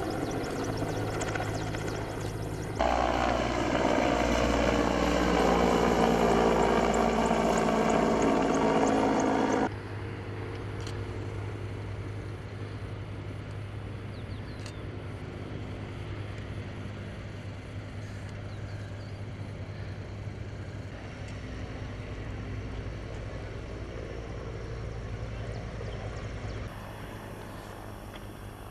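Firefighting aircraft engines heard over a forest fire across several cut-together shots. In the loudest shot, from about three seconds in to about ten, an aircraft passes close and its engine pitch falls as it goes by.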